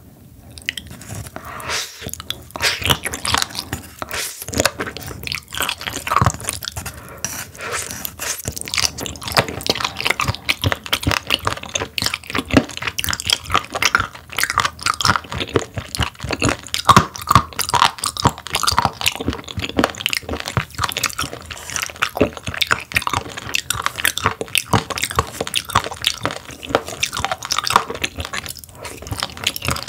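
Close-miked chewing and biting of sturgeon: a dense, irregular run of sharp, wet clicks from the mouth, quieter for the first second or so.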